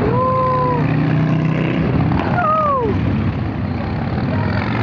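Motorcycle engines running together in the street, a steady low drone. Over it come two drawn-out higher tones: one held briefly at the start, and another sliding down about halfway through.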